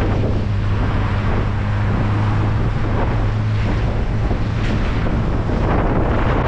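Morris Minor's engine running at a steady drone while driving, with road and wind noise buffeting the microphone.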